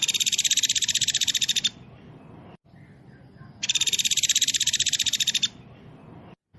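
Songbird trilling: two fast, tightly packed, high-pitched trills of about two seconds each, with a short pause between. This is the fast, dense 'speed rapat' style of song that is played as a tutor recording to train caged songbirds.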